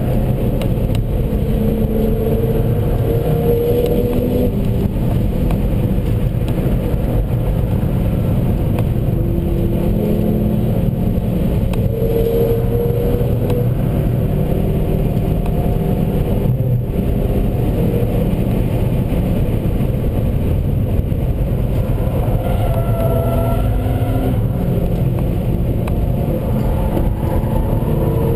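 Seat Leon Cupra 1P's turbocharged four-cylinder engine under hard driving, its pitch rising and falling every few seconds as it accelerates and shifts gears, over steady road and tyre noise.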